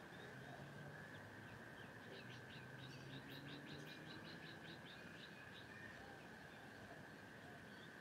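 Faint birdsong: a bird calling a quick run of short repeated notes, about six a second, from about two and a half to five seconds in, over a steady high-pitched drone.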